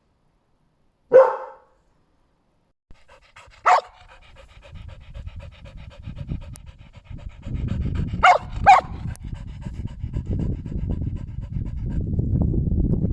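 A single dog bark, then after a short silence a dog panting hard and fast, growing louder, broken by one bark and later by two quick barks in a row.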